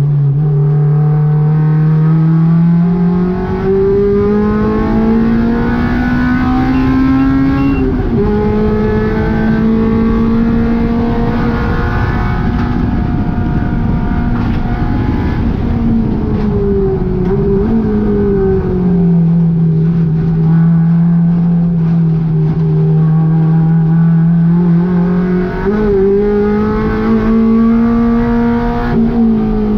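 Honda K20 four-cylinder engine in a VW GTI running hard on track, loud throughout. Its pitch climbs through the revs, drops sharply about eight seconds in and again around eighteen seconds, then climbs once more and falls near the end.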